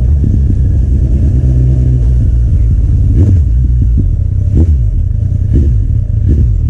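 Kawasaki Z800's inline-four, fitted with an Akrapovic carbon exhaust, running loud under way with a heavy low rumble. The engine note rises and falls a few times as the revs change.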